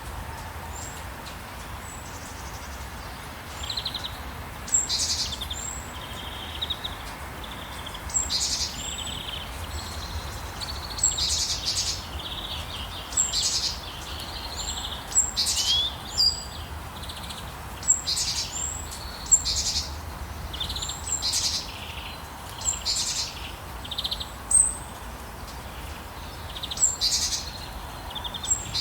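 Songbirds chirping in short, high, repeated calls, roughly one a second, over a steady background hiss.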